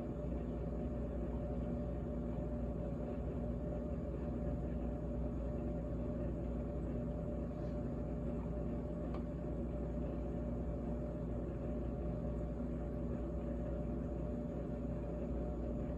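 GE GTH18XCTZRBB refrigerator running with a steady, even hum made of several held tones, with one faint tick about nine seconds in.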